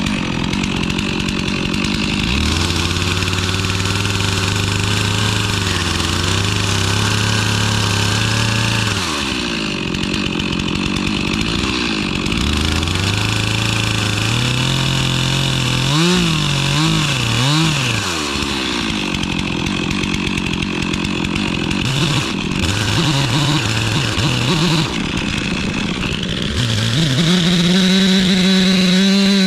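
Chainsaw cutting lengthwise along a log to square it into a beam. The engine pitch holds, drops and climbs again as the bar bites and eases off, then rises to a higher, steady pitch near the end.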